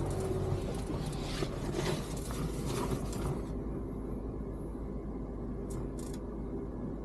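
Steady low hum of a car's engine heard inside the cabin. A hiss above it cuts off suddenly about three and a half seconds in, and a couple of faint clicks come near the end.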